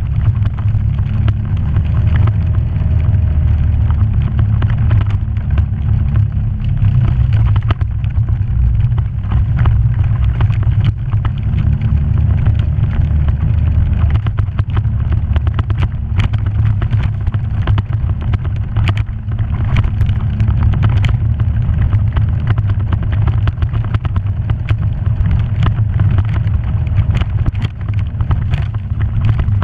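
A vehicle driving a rough dirt trail: a steady low engine rumble throughout, with frequent knocks and rattles from the bumpy ground.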